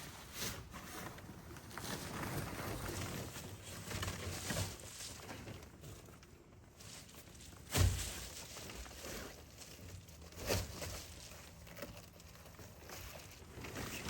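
Handling noise from a Reflectix foil-insulation window blind being fitted and pressed into place with Velcro: irregular rustling, with a sharp knock about eight seconds in and a lighter one a couple of seconds later.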